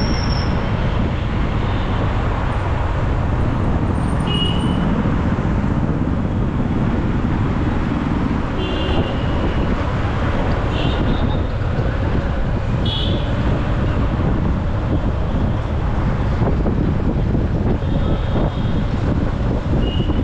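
Steady traffic and road noise heard from a motorcycle riding through city traffic, with short vehicle horn toots several times.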